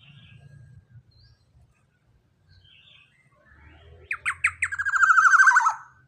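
Young black-naped oriole calling: three quick downward-sweeping notes about four seconds in, then a fast run of repeated notes that slides down in pitch and stops just before six seconds.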